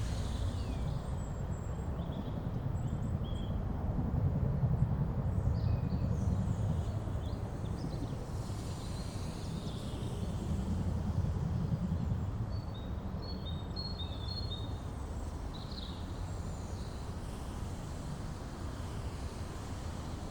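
Outdoor ambience: a steady low rumble with scattered short bird chirps, a quick run of them coming about two-thirds of the way through.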